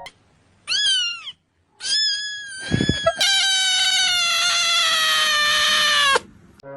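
A cat meowing three times: a short meow, a second meow, then a long drawn-out meow of about three seconds that slowly falls in pitch and cuts off.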